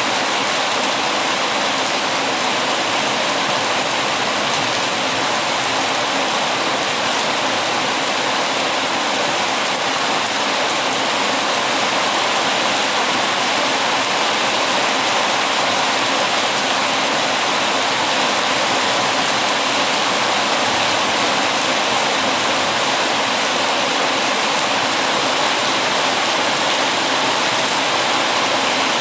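Heavy rain, a steady even rush with no breaks or changes.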